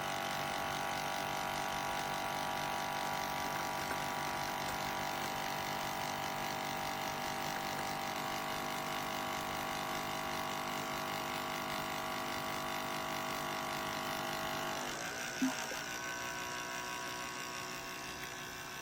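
Wacaco Pixapresso portable espresso machine's pump buzzing steadily as it pushes water through a coffee capsule mid-brew. About 15 seconds in, its pitch shifts and it runs on a little quieter.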